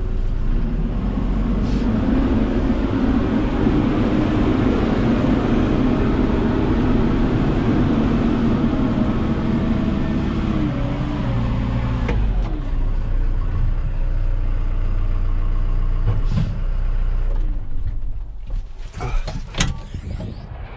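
A heavy vehicle's engine running hard at a steady pitch, then dropping in pitch and level about twelve seconds in as it eases off. A few sharp knocks sound near the end.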